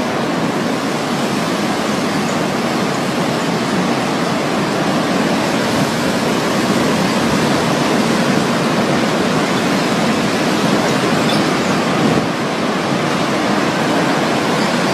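Strong storm wind from a nearby tornado blowing as a loud, steady, even rush with no breaks.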